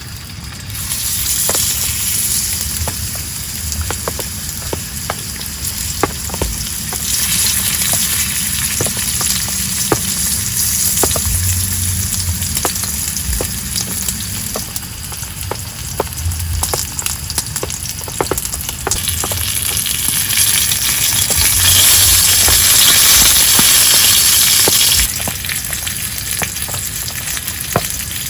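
Heavy rain pouring down, a steady loud hiss with many sharp drops ticking close by. It swells to its loudest in the second half and drops back suddenly near the end.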